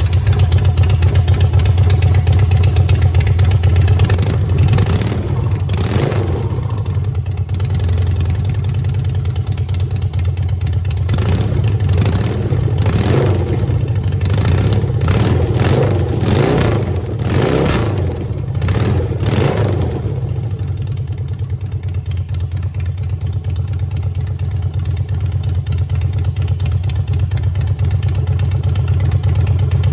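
BMW R90 air-cooled 898 cc flat-twin boxer engine on a test run. It catches right at the start, then idles, with repeated throttle blips that rev it up and down for about the first twenty seconds. It then settles into a steady idle.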